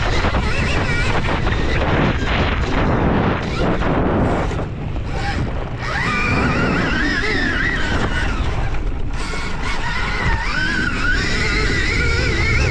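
Stark Varg electric dirt bike being ridden, its motor whine rising and falling in pitch with the throttle, under heavy wind buffeting on the microphone.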